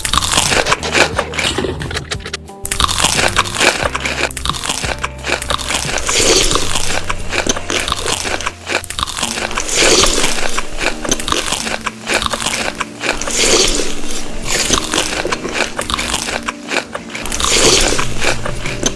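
Loud close-up crunching and chewing of crisp food, coming in waves of bites every few seconds, over background music.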